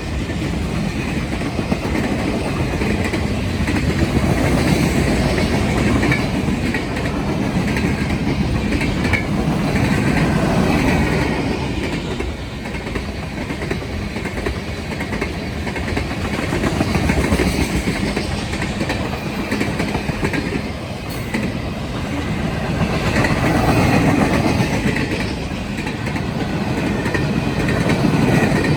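Railroad cars of a passing train rolling by: a steady rumble and rattle of steel wheels on the rails that swells and eases every several seconds.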